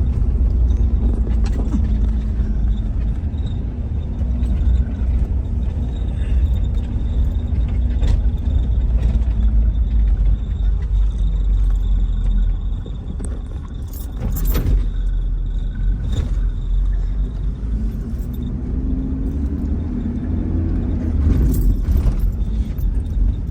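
Car driving on the road: a steady low rumble of engine and tyres, the engine note falling at first and rising again toward the end, with a few sharp knocks and rattles from bumps.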